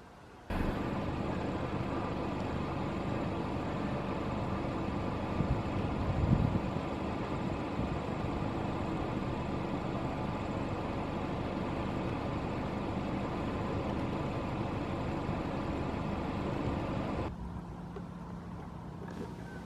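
Steady rushing noise with a faint low hum running through it. It starts and stops abruptly, and swells briefly about six seconds in.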